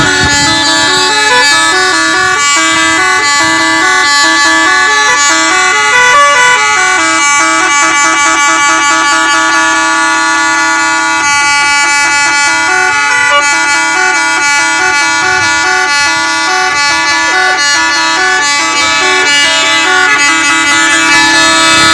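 A special musical vehicle horn playing a loud, continuous tune: short notes stepping up and down over a steady held tone, with the phrase repeating.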